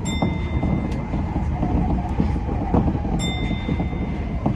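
Tokyo Metro 10000 series train running along the track, a steady low rumble with a few rail-joint knocks. Two steady high beeps of about a second each sound near the start and about three seconds in.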